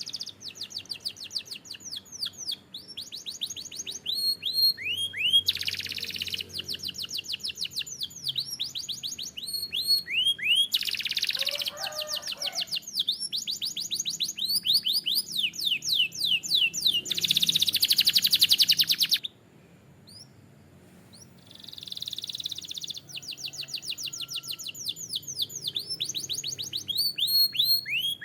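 Domestic canary singing a long, fast song of rapid trills, quick downward-sweeping whistled notes and dense buzzy rolls, with a brief pause about two-thirds of the way through.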